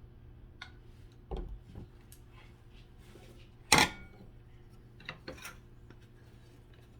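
Tableware being handled: dishes and metal cutlery clinking and knocking in a few scattered strokes, with one sharp, loud clack just under four seconds in.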